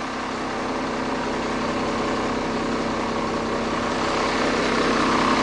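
Iveco lorry's diesel engine running steadily, its hum growing slowly a little louder.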